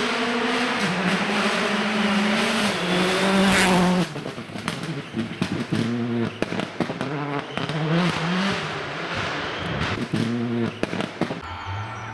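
Rally car engine at high revs, its pitch stepping through gear changes. About four seconds in it drops to a lower level and the engine revs up and down repeatedly, broken by sharp exhaust pops and bangs.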